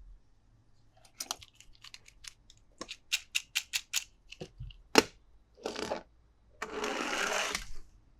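Plastic toys and packaging being handled: a run of sharp clicks and taps that quickens to about four a second, one loud click, then two rustling, scraping bursts near the end, the second about a second long.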